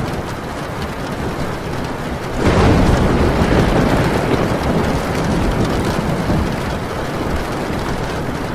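Heavy rain falling on a tin roof. About two and a half seconds in, a thunderclap breaks in suddenly and rumbles on, slowly fading.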